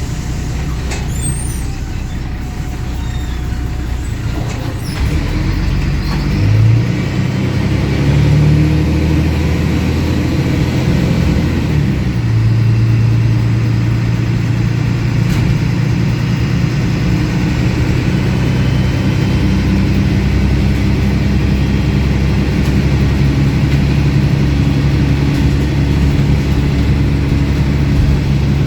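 MAN 18.220 bus's diesel engine heard from on board, pulling away and climbing through gear changes, then running steadily at speed. Its exhaust is oddly louder than usual for this bus.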